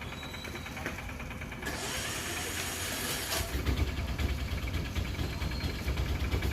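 A short burst of hiss, then an engine comes in about three and a half seconds in and runs on with a low, steady, pulsing idle.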